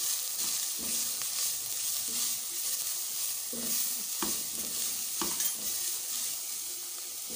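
Shredded cabbage and onion sizzling in hot oil in a metal pot, stirred with a spatula that scrapes and knocks against the pot now and then. The ground spices are being fried in with the vegetables to cook out their rawness.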